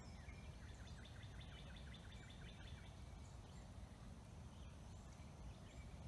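Near-silent outdoor ambience: a faint low rumble, with a distant bird giving a quick run of short chirps, about five a second, between one and three seconds in, and a few faint high calls after.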